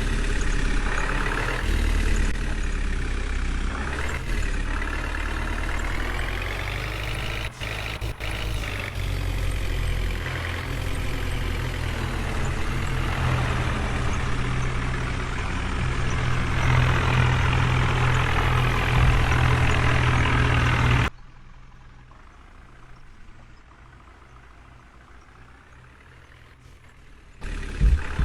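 Heavy diesel engine running, its pitch rising and falling as it revs. About 21 seconds in the sound drops suddenly to a much quieter, steady engine hum, and the loud running returns just before the end.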